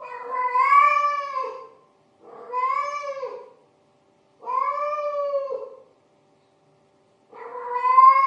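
A cat meowing: four long, drawn-out meows about a second apart, each rising slightly in pitch and then falling away.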